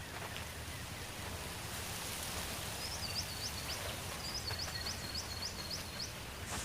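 Steady outdoor wind noise, with a bird calling two quick runs of short, high notes about halfway through, each note ending in an upward flick.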